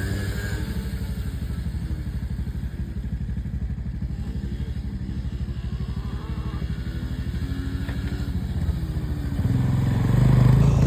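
Small pit bike engine idling with a steady putter, then revving up about nine and a half seconds in as the rider pulls away.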